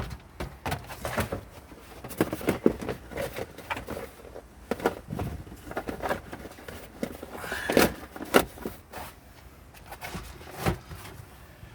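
Irregular light knocks, clicks and clatter from parts and tools being handled, with louder knocks about eight seconds in and again near the end.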